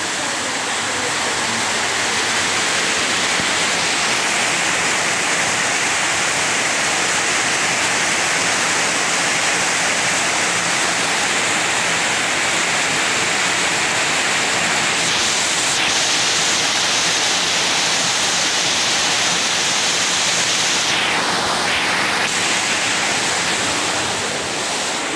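Heavy tropical downpour driven by strong wind: a steady, loud rush of rain.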